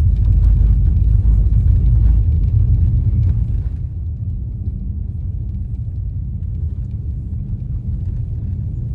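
Car driving at road speed, heard from inside the cabin: a steady low rumble of tyres and engine. It is louder for the first few seconds, then settles slightly quieter.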